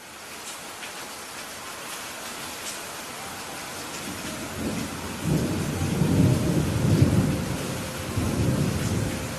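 Steady rain falling, with a long low rumble of thunder that rises about five seconds in and dies away near the end.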